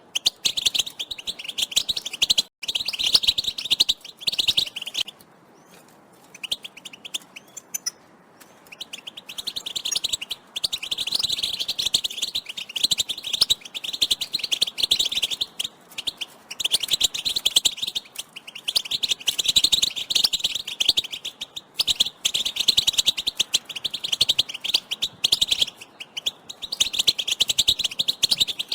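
European goldfinches' rapid twittering call notes, the excited calls used to stir a male goldfinch into song. The chirping comes in runs of several seconds, with a lull about five seconds in and brief gaps later.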